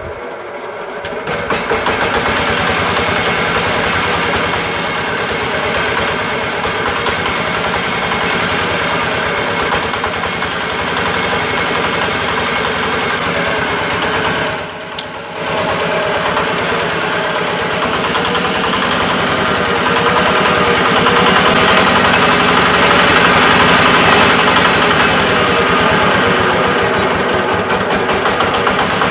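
A small motor running steadily, with a short break about halfway through.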